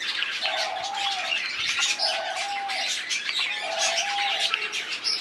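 Birds chirping, with a short, level, mid-pitched call repeated four times, about every one and a half seconds.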